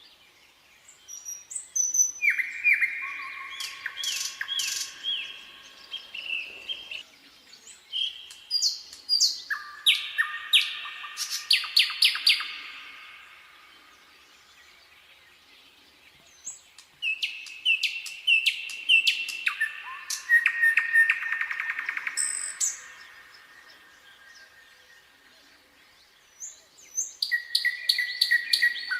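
Nightingale singing in separate phrases of repeated notes, whistles and fast trills, with pauses of a few seconds between them; four phrases, the last starting near the end.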